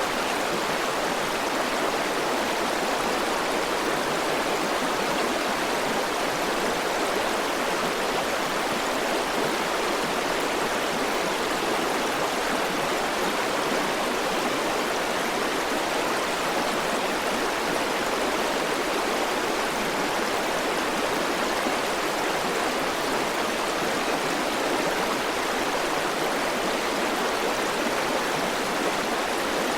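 River water flowing and rushing in a steady, even wash with no breaks.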